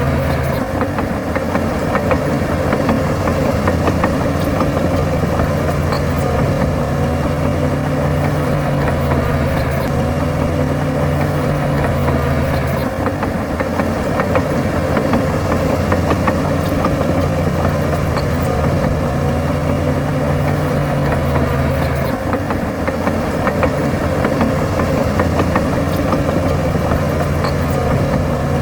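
Diesel engine of heavy earthmoving machinery running steadily, its pitch shifting a few times as the load changes.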